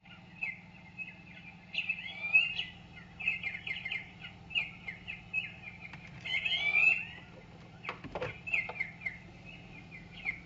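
Small songbirds chirping and twittering in quick, repeated short calls, busiest around two seconds in and again near seven seconds, over a faint steady low hum.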